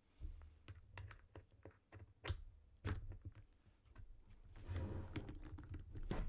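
A run of light clicks and taps from small hard objects being handled, with two sharper knocks a couple of seconds in and a stretch of rustling and scraping near the end.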